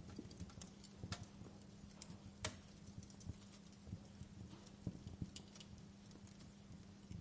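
Wood fire crackling softly, with irregular snaps and pops, the sharpest about two and a half seconds in, over a low steady hum.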